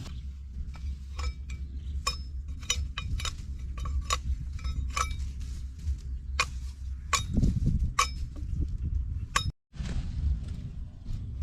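Irregular sharp clinks, each with a short ringing tone, over a low steady rumble, with a brief cut to silence near the end.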